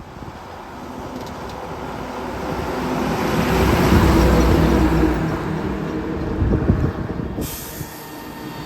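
A heavy road vehicle, a truck or bus, driving past close by: engine and tyre noise swell to a peak about halfway through, then fade away.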